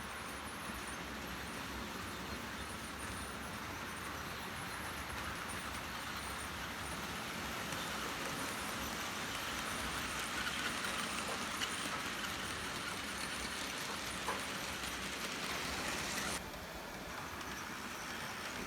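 Steady running noise of a model train going round a model railway layout, with a slight drop in level about 16 seconds in.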